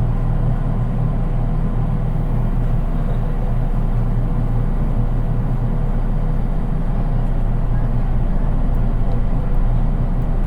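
Interior running noise of a JR East 183 series electric train, heard from its unpowered KuHa driving trailer car: a steady low rumble of wheels and bogies on the track, with no traction-motor whine and a few faint ticks near the end.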